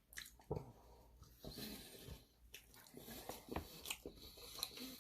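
A person chewing and biting food, with soft crunches and small mouth clicks scattered through.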